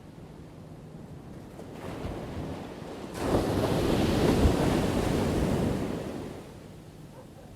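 Ocean waves breaking on a shore: a low surf wash, then a wave crashes about three seconds in, swells and drains away over about three seconds.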